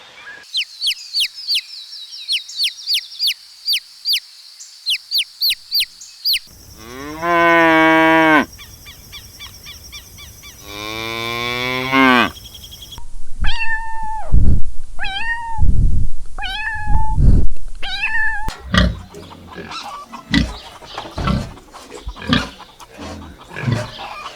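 A run of farm animal sounds: quick high chirps in short groups, then two long cow moos, then about five shorter repeated calls roughly a second apart, followed by a scatter of knocks and thumps near the end.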